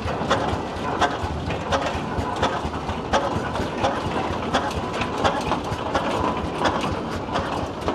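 Steam traction engine running, with a steady rhythm of sharp beats at about three a second.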